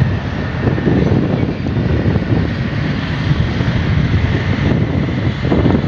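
Long-arm excavator's diesel engine running steadily, with wind buffeting the microphone.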